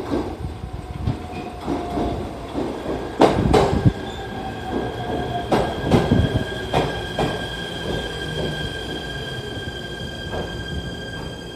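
An ET127 series electric train arrives and slows, its wheels knocking over rail joints. A slowly falling whine runs through the first half, and a steady high-pitched brake squeal sets in about three seconds in and holds.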